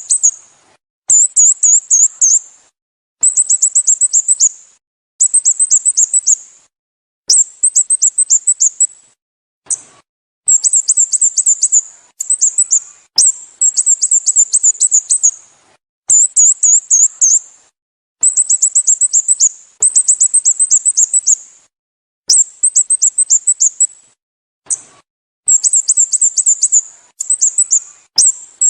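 Sooty-headed bulbul calling in a repeated pattern: bursts of rapid, high, thin down-slurred notes, each burst about a second and a half long. The bursts repeat every two seconds or so with short silent gaps between them.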